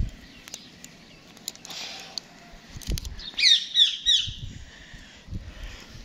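A small bird chirping four quick, falling notes a little past three seconds in, with a few soft knocks around it.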